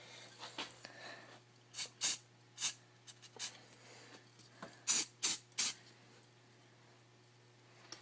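Aerosol spray paint can sprayed in short hissing bursts, about seven quick sprays, the last three in fast succession about five seconds in.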